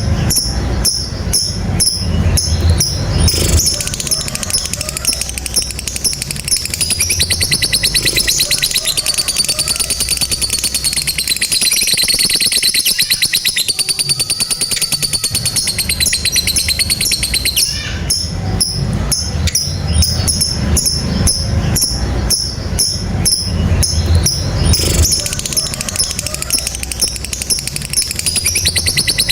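Lovebird giving its long, rapid, high-pitched chattering trill ('ngekek panjang'), with an unbroken stretch in the middle.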